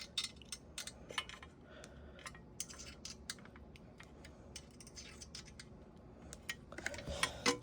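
Scattered light clicks and clinks of small metal parts being handled while working on an exhaust fan motor, coming more thickly near the end.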